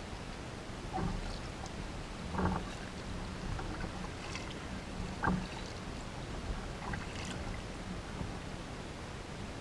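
Kayak paddle strokes on the water: a few short splashes and drips, spaced a second or more apart, over a steady background of water and air noise.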